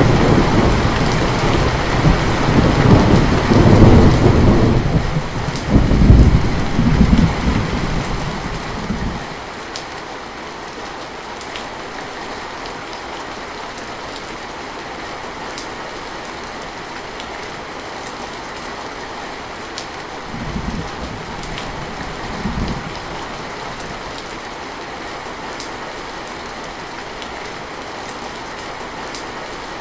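Heavy rain falling steadily, with a long roll of thunder rumbling through the first nine seconds or so before dying away. Two brief, fainter rumbles of thunder come about two-thirds of the way through.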